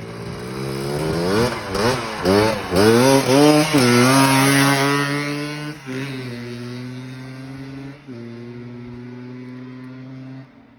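Yamaha Blaster 195 cc single-cylinder two-stroke engine in a mini bike on its first run, revved up and down several times, then held at a steady speed while the sound slowly fades. It falls away abruptly near the end.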